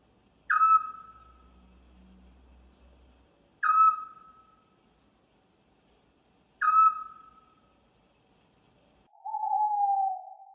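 Owl calling: three sharp, short falling calls about three seconds apart, each fading quickly, then a longer, lower hoot near the end.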